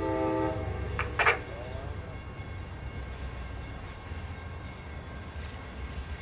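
Amtrak diesel passenger train passing: the locomotive's horn sounds a chord blast that cuts off about a second and a half in, over the steady low rumble of the train rolling by.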